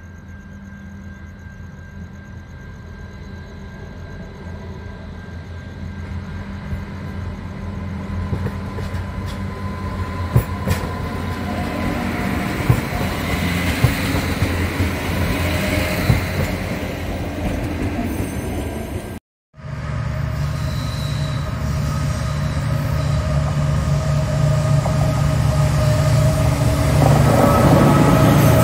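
A pair of Adelaide Metro 3000-class diesel railcars approaching and passing, growing louder, with a few sharp wheel clicks over rail joints. After a sudden cut about two-thirds in, an SCT freight train's diesel locomotive approaches with a steady low engine note that grows louder to the end.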